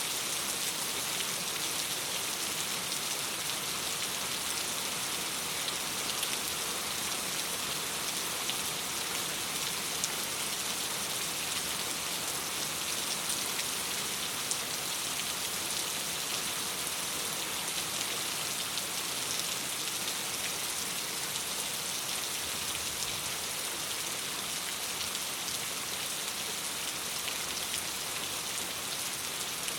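Steady rain falling against a window glass: an even hiss with a dense patter of small drops, unchanging throughout.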